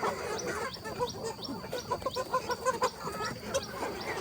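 Chickens clucking, with a quick run of short repeated calls in the middle and a few high chirps mixed in.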